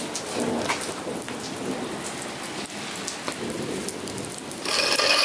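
Steady rain falling on a wet concrete patio, with scattered drop ticks. Near the end comes a louder scrape lasting about a second, the legs of a small charcoal kettle grill dragged across the concrete.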